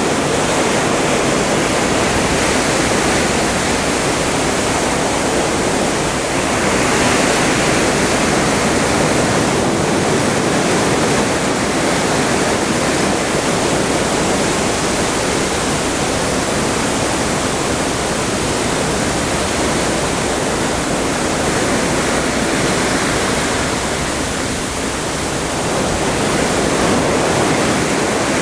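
Open Atlantic seawater rushing and breaking alongside a cruise ship under way: a steady wash that swells about seven seconds in and again near the end.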